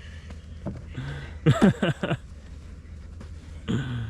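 Brief excited voice sounds, short untranscribed exclamations or laughs, strongest in the middle and again near the end, over a steady low rumble.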